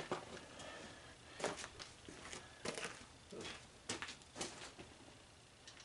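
Faint, scattered clicks and light knocks, about half a dozen, of metal parts and hand tools being handled while the tanning bed is taken apart.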